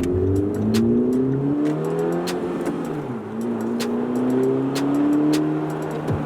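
Honda Civic Si's turbocharged 1.5-litre four-cylinder running through an AWE Touring cat-back exhaust. The engine pitch climbs steadily twice, dropping back about halfway through and again near the end.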